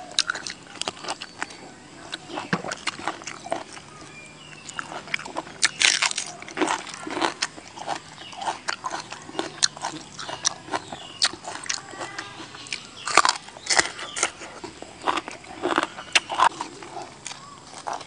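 Close-up eating sounds of a person biting and chewing raw river prawn: many short clicks and crunches, loudest about six and thirteen seconds in.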